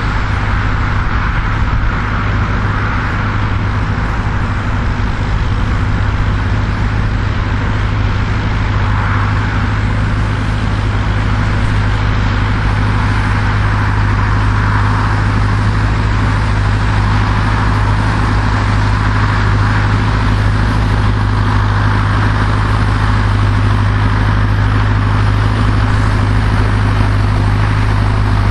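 Same Silver 110 tractor's diesel engine running steadily under load while pulling a four-furrow plough, with a constant low hum.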